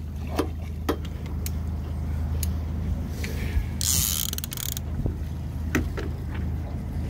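Steady low drone of a boat's motor idling, with scattered clicks and knocks and a short burst of hiss about four seconds in.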